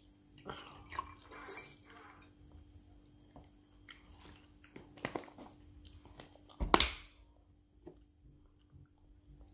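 Close-up chewing and wet mouth sounds of a person eating rice and stew, with scattered small smacks and clicks. A single louder thump comes about two-thirds of the way through.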